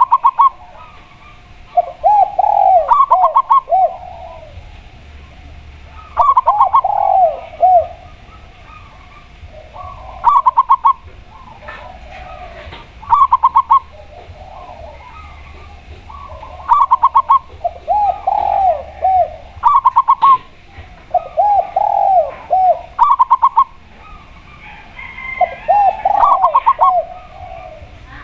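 Spotted dove and zebra dove cooing in turn, a phrase every couple of seconds. One kind of phrase is a quick run of short, higher notes; the other is a lower series of arching coos.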